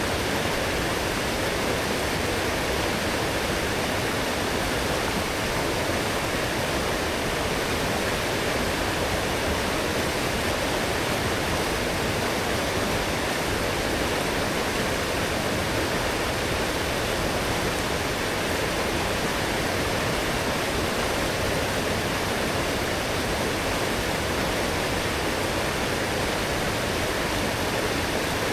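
A strong, fast forest stream swollen by heavy rain, rushing and splashing steadily over its bed.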